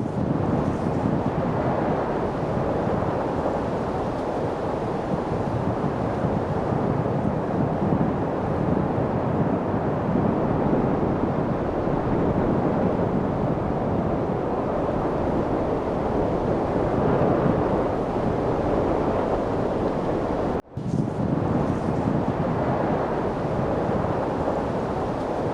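Wind blowing steadily, an even rushing noise with no distinct events. About 20 seconds in it drops out for a split second and resumes.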